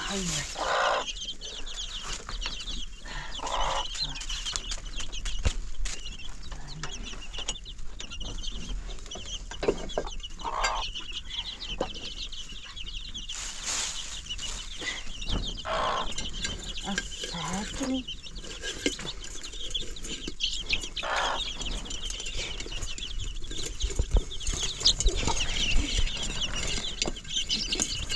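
Chickens clucking, with short separate calls every few seconds over a constant high-pitched chirping.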